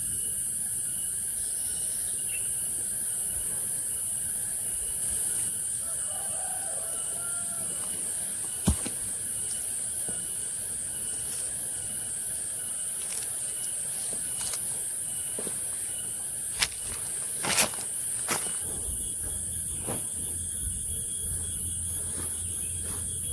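Insects droning steadily at a high pitch with a slight pulsing. A few sharp clicks and knocks come through, the loudest cluster about two-thirds of the way in.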